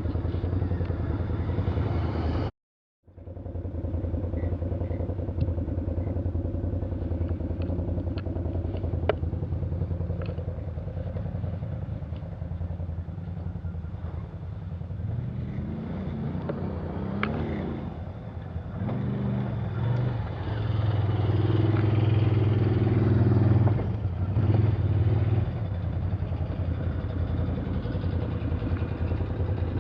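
Off-road vehicle engine running steadily, with a brief total dropout about three seconds in. It revs up and runs loudest around twenty to twenty-four seconds in, with scattered clicks and clatter.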